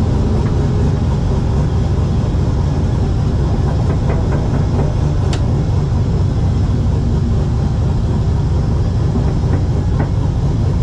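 Inside the stripped cabin of a turbocharged Mustang drag car cruising: its engine and drivetrain make a loud, steady low rumble mixed with road noise. A few light clicks sound, with one sharp tick about five seconds in.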